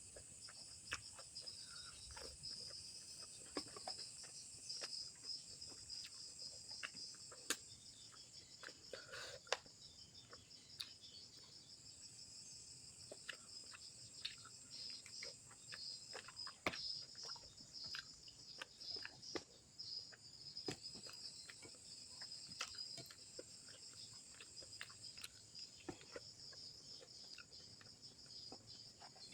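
Faint close-up eating sounds: scattered wet clicks and smacks of chewing a meal of grilled snapper, over a steady high chirring of insects.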